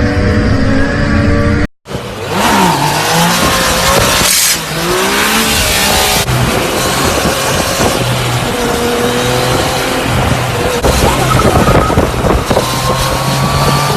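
A motor vehicle engine running steadily, cut off abruptly about two seconds in. Then loud vehicle noise with whines sliding up and down in pitch, like engine revving and tyre squeal.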